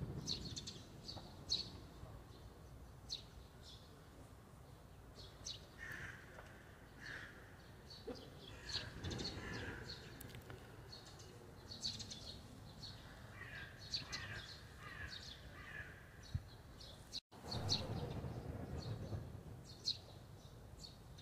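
Small birds chirping: many short, high chirps scattered throughout, with some lower calls in between, over a steady low background noise. The sound cuts out for an instant about seventeen seconds in.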